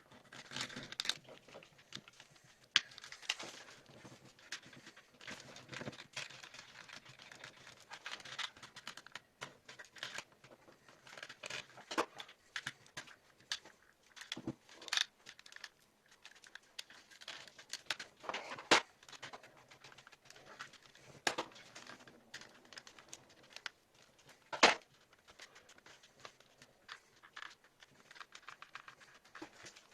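Plastic headphone parts being unscrewed and handled with a small screwdriver: irregular clicks, taps and plastic rustling, with a few sharper clicks standing out.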